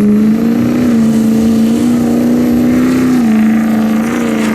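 Diesel truck engine at full throttle on a drag run, loud and holding a steady pitch. The pitch dips briefly about three seconds in, then falls away near the end.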